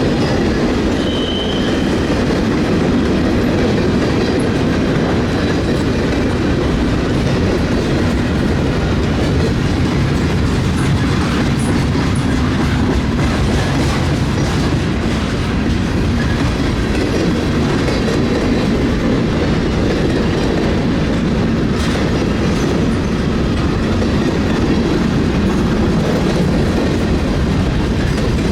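Train cars rolling steadily past, steel wheels clacking over the rail joints.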